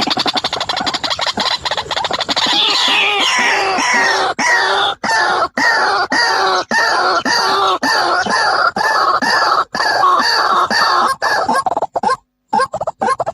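White-breasted waterhen (ruak-ruak) calling: a fast run of repeated notes that slides down in pitch, settling into a steady series of rapid arched notes, with a brief break near the end.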